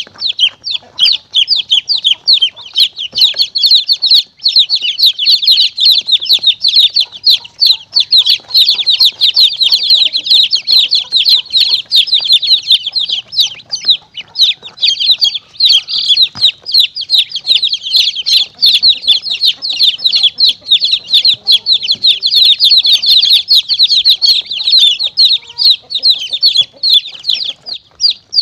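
A crowd of baby chicks peeping rapidly and without pause in high, short, falling notes: a chick-call lure recording for drawing monitor lizards and mongooses.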